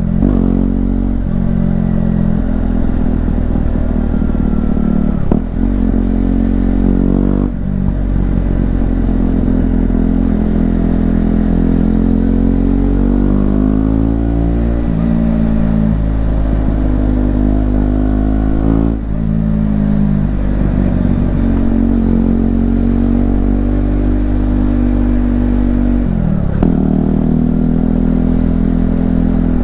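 KTM Duke 125's single-cylinder 125 cc four-stroke engine under way, revving up and easing off over and over. The pitch drops sharply at several gear changes, then climbs again.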